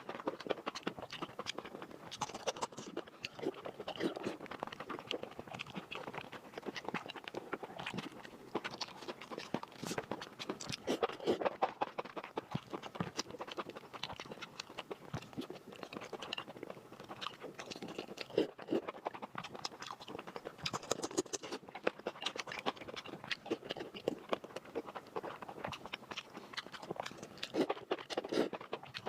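A person chewing and crunching roast pork, with dense, irregular wet clicks and crackles of mouth and food.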